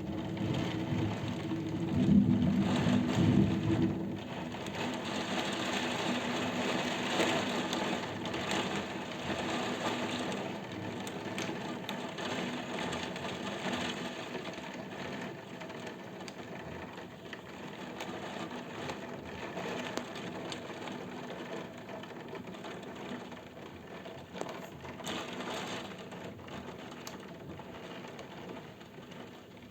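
Rain falling steadily, with a low rumble of thunder dying away in the first few seconds; the rain slowly grows quieter.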